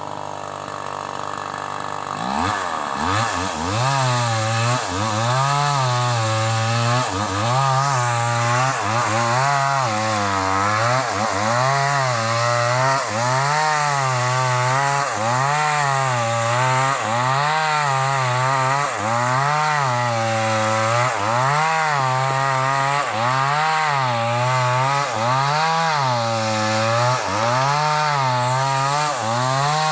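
Sumura CS6500S two-stroke chainsaw, low for the first couple of seconds, then opened up and cutting through old sobsi wood. Its engine pitch sags and recovers again and again, about every second and a half, as the chain bites and eases. The engine sounds strained under the load.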